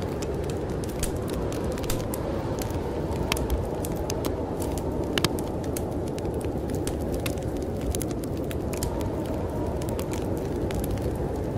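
Wood fire in a fireplace crackling, with frequent irregular sharp pops, over a steady low rush of snowstorm wind.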